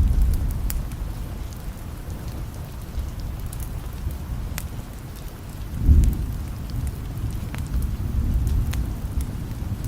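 Steady rain with low rolls of distant thunder, one swelling about six seconds in, over scattered small ticks.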